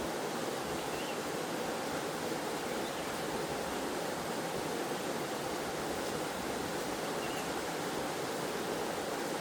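Steady rushing of a waterfall and flowing stream water, an even wash of noise that stays constant throughout.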